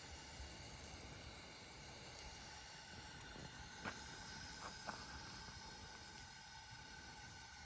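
Faint steady background hiss with a few light clicks about four and five seconds in.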